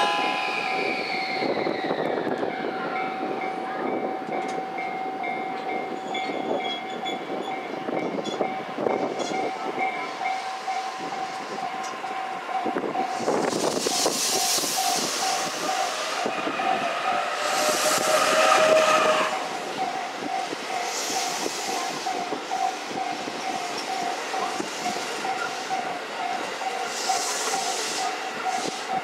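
JR E531 series electric train running out of the station, with wheels on the rails and running noise that swells and fades. A steady pulsing tone runs underneath throughout.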